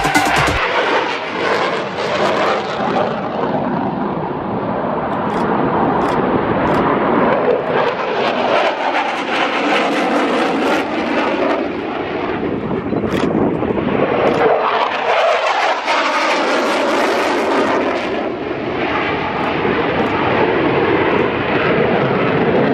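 Fixed-wing airplane engine noise, loud and continuous, swelling and fading as the aircraft passes overhead.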